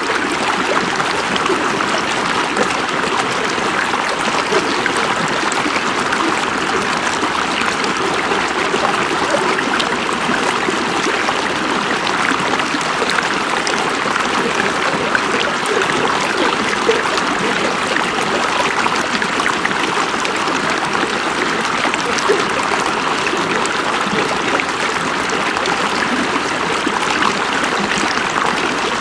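River water running over rocks: a steady rushing and babbling with small splashes throughout.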